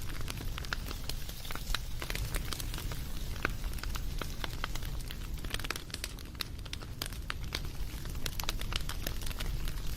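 Wood fire crackling: a steady low rumble of burning with many sharp, irregular pops and snaps from the logs.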